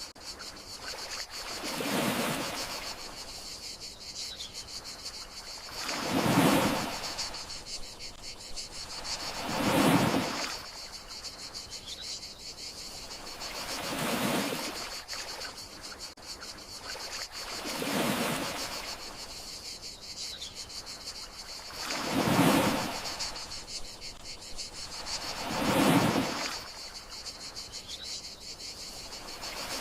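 Gentle sea waves washing onto the shore about every four seconds, some larger than others, over a steady high-pitched chorus of crickets.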